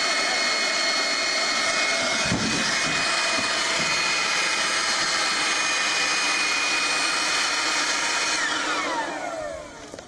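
Electric blower running at full speed with a steady rush of air and a high motor whine. About eight and a half seconds in it is switched off, and the whine falls in pitch as the motor spins down.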